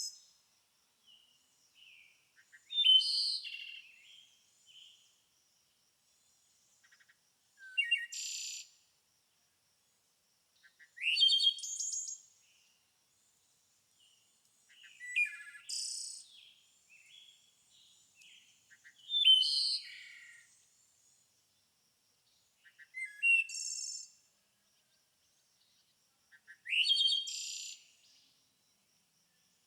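A songbird singing short, loud phrases of whistled notes and quick rising sweeps, each about a second long and repeated roughly every four seconds with pauses between.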